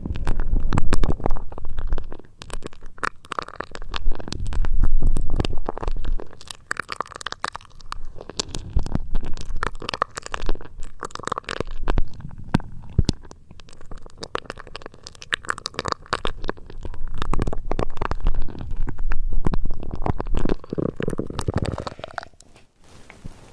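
Close-up ASMR trigger sounds on a sensitive microphone: muffled low rumbling and irregular scratchy crackling, as from the microphone or its ear covers being rubbed and squeezed. They come in swells every few seconds and stop about a second before the end.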